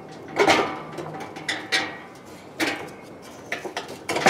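The metal cabinet of a Dyna-Glo kerosene heater being slid back over the heater: several short bursts of metal scraping and knocking against metal, with a few sharp clicks.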